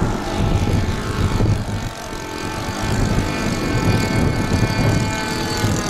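Radio-controlled seaplane's engine buzzing steadily as it flies, fading a little about two seconds in and then growing louder again. Gusty wind rumbles on the microphone underneath.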